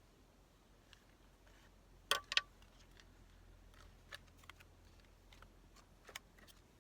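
Scattered small clicks and taps of craft tools and paper being handled on a table, with a sharper double click about two seconds in, over a faint low hum.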